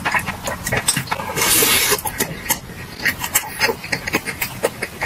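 Close-miked chewing of fried food, a rapid run of wet mouth clicks and smacks, with a brief loud rush of noise about a second and a half in.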